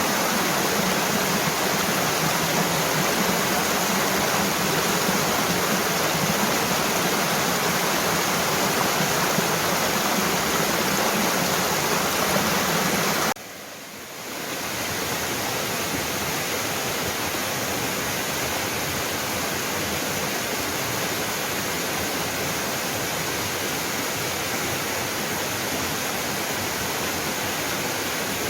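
Mountain waterfall rushing steadily. A little under halfway through it drops out briefly, then comes back slightly quieter.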